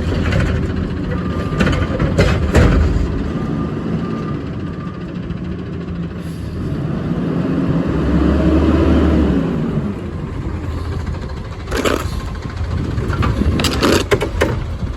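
Peterbilt 520 garbage truck with a Curotto-Can running, its engine revving up and back down in the middle while the collection gear works. Sharp metallic knocks and bangs from the cart and arm come in the first few seconds and again near the end.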